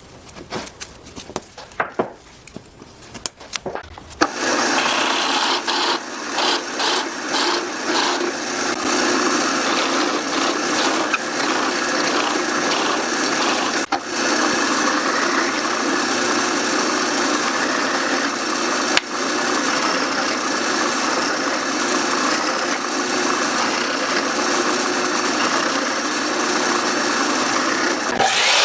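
A few light knocks and clicks of wood being handled, then about four seconds in a woodworking power tool starts and runs steadily on wood, with two brief dips in its sound.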